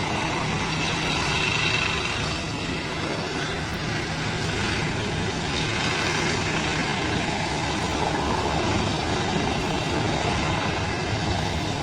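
Helicopter running overhead, its steady engine and rotor noise over the continuous rush of a large waterfall.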